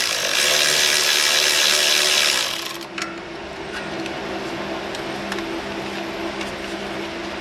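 Power tool running loudly on a 13 mm bolt for about two and a half seconds, then dropping to a quieter steady hum with a few light ticks.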